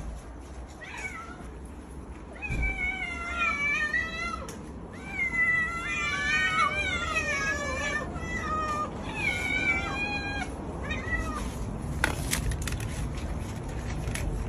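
Domestic cat meowing in a series of long, wavering, drawn-out calls, the longest lasting two to three seconds. A sharp click follows near the end.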